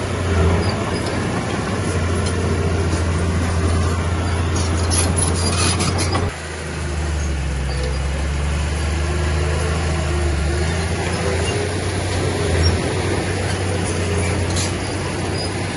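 Heavy diesel engine of earthmoving machinery running steadily, with a few sharp knocks about five to six seconds in, then a sudden drop to a lower, quieter engine note.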